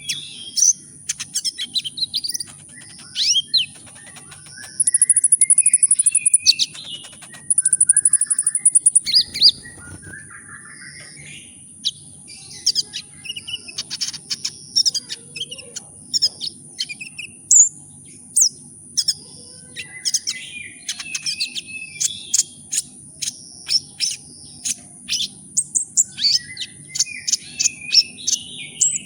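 Kolibri ninja (a small sunbird kept as a songbird) singing in a fast, busy stream of high chirps and short sweeps, with two long, loud high trills near the start. A steady high whine and a faint low hum run underneath.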